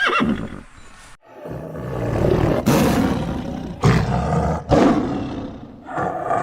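A horse's whinny trails off at the start, then a large animal gives several deep, rough roars about a second apart.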